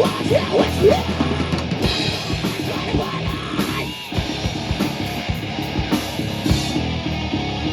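A live rock band playing loud, with a drum kit pounding under electric instruments; the sound thins briefly about four seconds in before the full band comes back.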